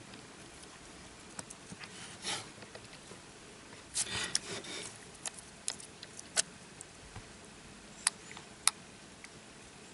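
Small clicks and scraping from handling small parts and tools during a phone repair. The clicks are scattered, with a scratchy cluster about four seconds in and two sharp clicks near the end.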